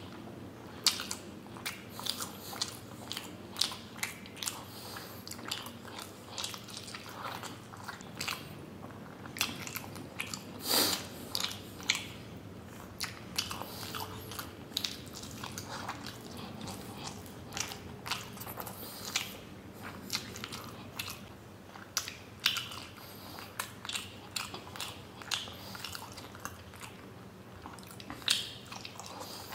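Close-miked chewing of soft paneer momos: wet mouth smacks and soft clicks at irregular intervals, with a louder smack about eleven seconds in.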